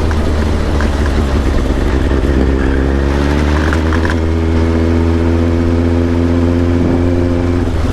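Kawasaki ZX-7R's inline-four engine running under a steady low rumble; its revs rise a couple of seconds in and then hold steady until near the end.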